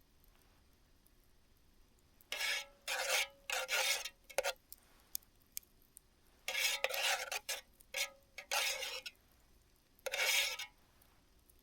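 A series of about eight short rasping scrapes, each under a second, coming in irregular groups with short pauses between.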